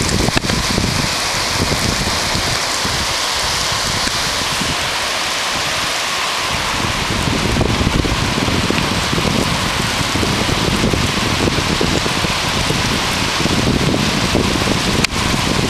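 Rain falling in a steady, loud hiss.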